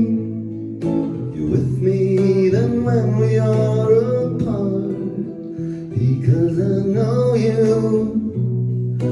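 Acoustic guitar played with singing, a song performed live.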